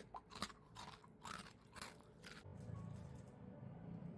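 Crunchy food being chewed close to the microphone: about six sharp crunches, roughly two a second, then a low steady hum comes in about halfway through.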